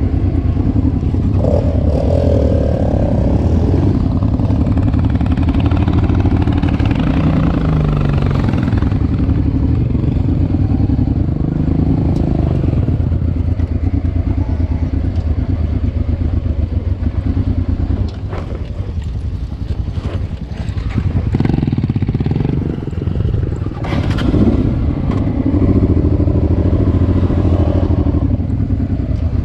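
Honda Transalp's V-twin engine running steadily at low revs, with a few brief rises and falls in engine pitch. The level drops for a few seconds about two-thirds of the way through.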